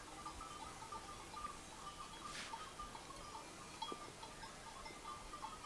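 Small bells tinkling faintly and irregularly, ringing at a couple of pitches, with a soft swish about two seconds in.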